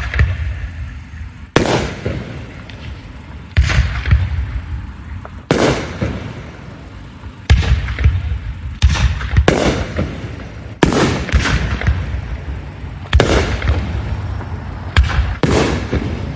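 Aerial firework shells bursting: about eleven loud bangs, one every second or two with some in quick pairs, each trailing off into a fading rumble.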